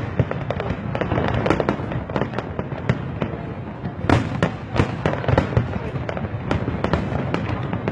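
Fireworks display: a dense, continuous barrage of shells bursting, rapid bangs and crackles over a steady rumble, with the loudest bangs about four to five seconds in.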